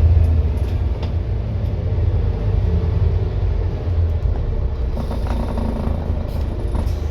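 Scania N230UD double-decker bus's diesel engine running, a steady low rumble, with faint rattles over it.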